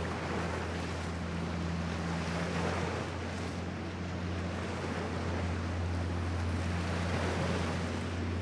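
A passing powerboat's engines running with a steady low drone, over the wash of waves and wind on the microphone.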